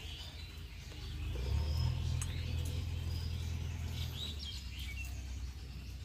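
Small birds chirping with short calls, and a low rumble that starts about a second in and is the loudest sound.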